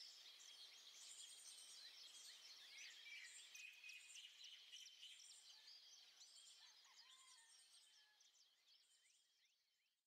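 Faint chirping of many small birds, short quick calls overlapping one another, fading out near the end.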